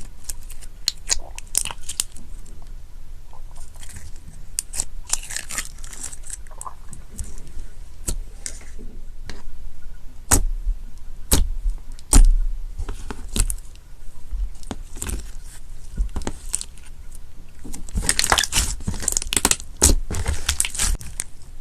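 Slime being squeezed and pressed by hand, giving many sharp popping clicks and bursts of crackling, with a couple of dull thuds near the middle.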